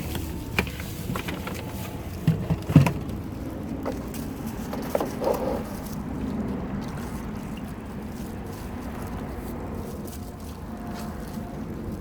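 Handling noise while bait worms are sorted and packed: several sharp knocks and clatters in the first three seconds, the loudest about three seconds in, over a steady low hum.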